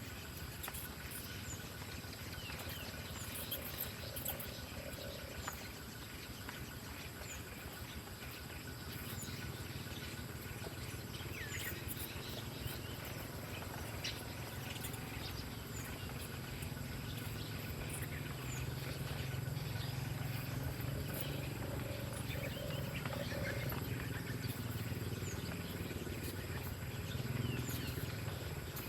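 Forest ambience: a steady high insect drone with scattered short bird chirps and ticks. A low rumble builds up in the second half.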